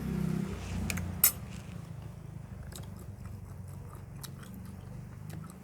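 A person chewing and biting food close to the microphone, with crisp crunches scattered through and one sharp, loud crunch about a second in, over a low steady hum.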